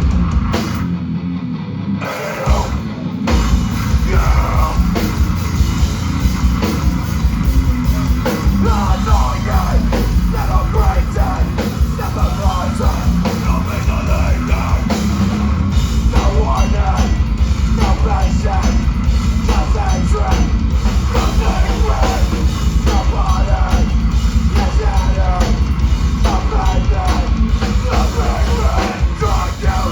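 Live heavy rock band playing: distorted guitars, bass and a pounding drum kit, with shouted vocals. A brief break about a second in, then the full band crashes back in.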